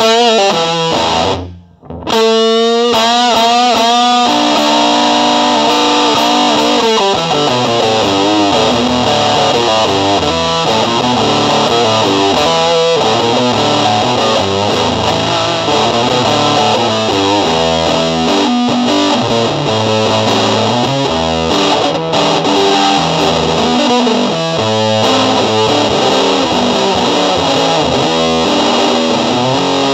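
Electric guitar played through distortion and effects, continuous loud playing of notes and riffs. Near the start it cuts out briefly, then comes back with wavering, vibrato-laden notes.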